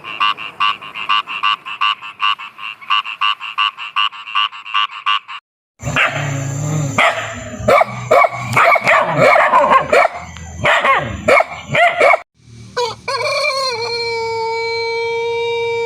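Farm animals calling in three separate recordings. First a fast, even run of short repeated calls. After an abrupt change comes a jumble of overlapping calls, and near the end one long, held call.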